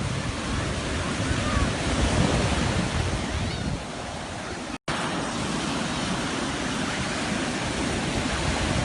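Sea waves washing onto the shore, with wind buffeting the microphone. The sound drops out for an instant about halfway through.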